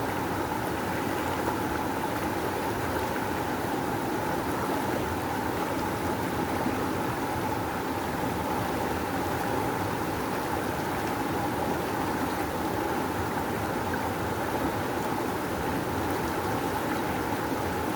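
A river rushing in a strong, steady flow of white water.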